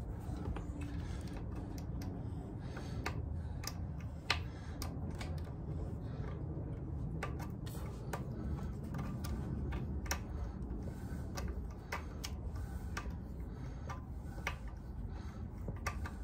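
Irregular light clicks and ticks, about one or two a second with a sharper one about four seconds in, from hand tools and the gearcase plugs being handled and tightened on an outboard's lower unit. A low steady rumble runs underneath.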